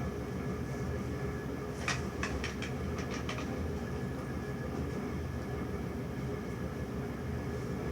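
A steady low rumble of background noise, with a quick run of about six sharp clicks or taps around two to three seconds in.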